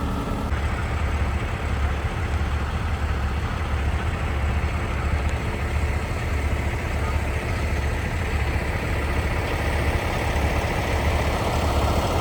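Logging truck's diesel engine running steadily with a low drone.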